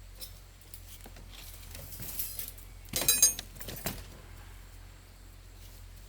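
Small metal pieces clinking and rattling: scattered light clicks, then a brief burst of ringing metallic jangles about three seconds in.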